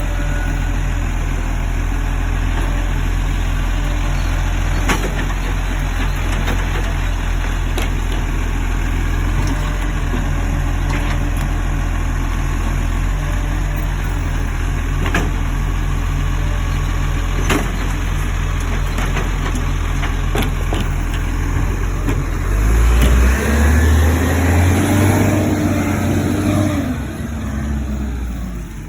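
Garbage truck engine idling steadily, with a few sharp clicks. About 23 seconds in, the engine revs up and back down for a few seconds.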